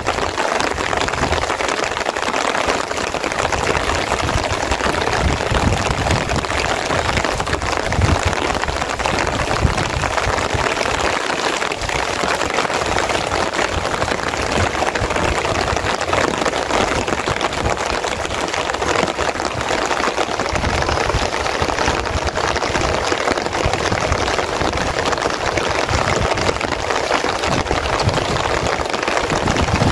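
Steady rain falling on a tarpaulin shelter: a dense, even hiss.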